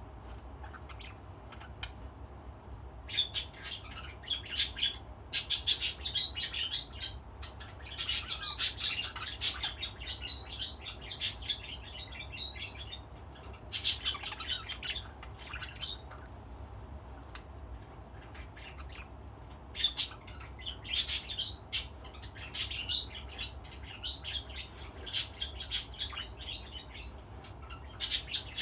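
Budgerigars chirping and chattering in bouts of quick high notes lasting a few seconds, with quieter gaps between, over a faint low steady hum.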